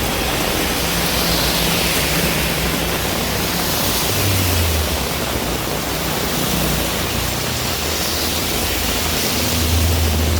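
Heavy rain falling steadily, an even hiss. A low rumble swells briefly about four seconds in and again near the end.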